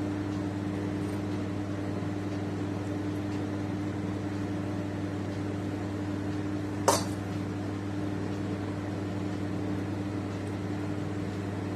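A steady low electrical hum runs throughout. About seven seconds in there is one short clink.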